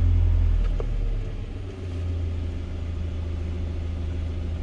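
UMZ-4216 Evotech 2.7 four-cylinder petrol engine just after starting, with a new hydraulic lifter fitted in cylinder one. Its fast start-up idle drops and settles to a steady idle about a second and a half in.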